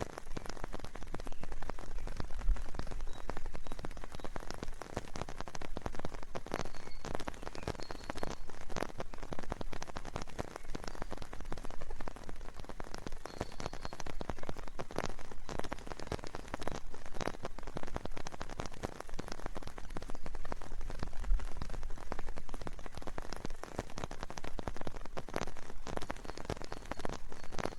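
Steady rain falling, with many individual raindrops tapping close by at an irregular pace.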